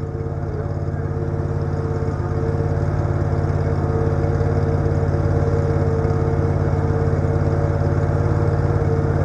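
A large engine running steadily, growing louder over the first couple of seconds and then holding level.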